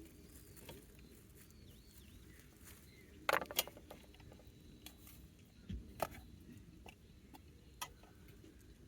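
A few sharp clicks or taps at uneven intervals over a faint, steady outdoor background: two close together about three and a half seconds in, then single ones about six and eight seconds in.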